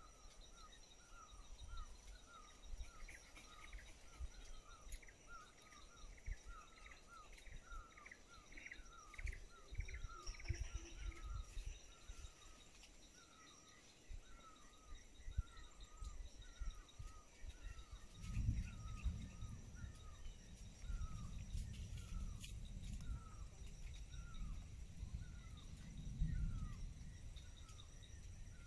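Forest ambience: a bird's short call repeated over and over, about once or twice a second, over a steady high insect drone. About two-thirds of the way through, a low rumble comes in on the phone's microphone for several seconds.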